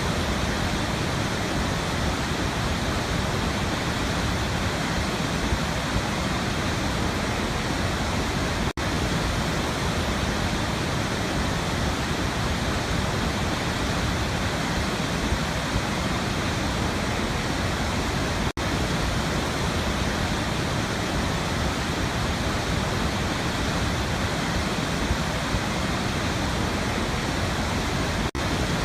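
Waterfall water rushing in a steady, even roar of noise, broken by a split-second dropout about every ten seconds.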